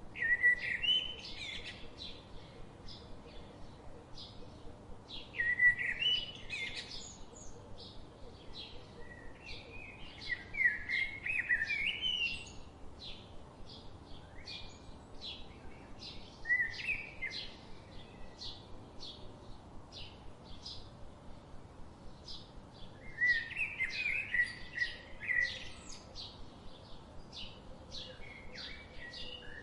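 Birds singing: one keeps up a steady series of short, high chirps, about two or three a second, while louder warbling song phrases break in roughly every five seconds.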